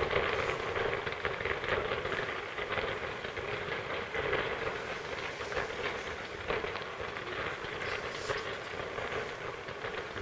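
Distant fireworks crackling densely and steadily, a rain-like patter of many small pops with no single large bang.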